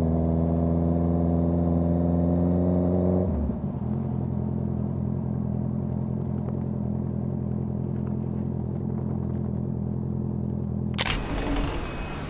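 Honda CBR650R inline-four engine through a Dominator GP full-system exhaust, holding a steady note. About three seconds in the revs drop suddenly to a lower steady note. A sudden rush of hissing noise cuts in near the end.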